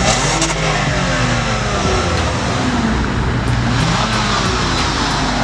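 Toyota Camry engine revved in neutral through its exhaust before it is straight-piped, the pitch climbing and falling several times.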